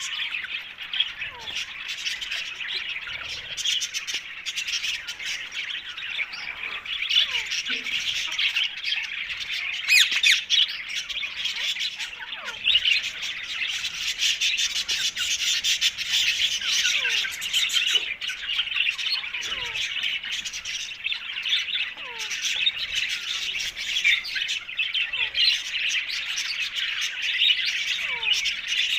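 Ringneck parrot (rose-ringed parakeet) squawking and chattering, a dense run of high-pitched calls with short falling notes every second or two.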